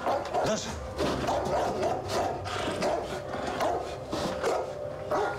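Dog howling in a run of repeated cries.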